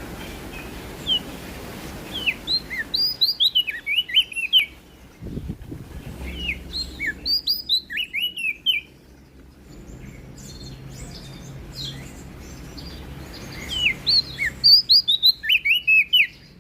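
Prenjak daun song: quick, high chirping notes that sweep down, delivered in three bursts of about three seconds each. A faint low hum runs underneath.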